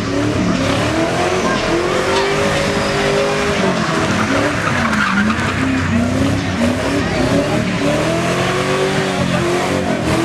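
A car engine revving hard, its pitch rising and falling again and again, over a continuous hiss of spinning, skidding tyres, as in a burnout or donut.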